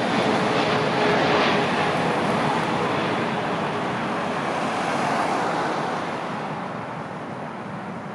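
Jet airliner on landing approach passing by, its engine noise loud at first and then fading away, with a faint whine that drops slightly in pitch as it goes.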